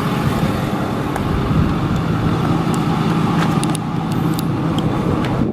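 Ford 6.4L Power Stroke V8 diesel of a 2008 F350 Super Duty idling steadily.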